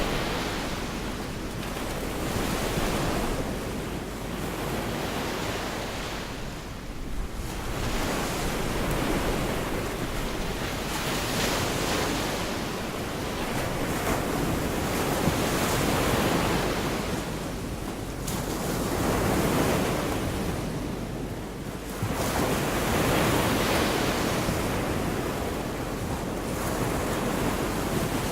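Gulf of Mexico surf washing onto the beach, the rush of each wave swelling and fading every few seconds, with a steady low rumble of wind on the microphone.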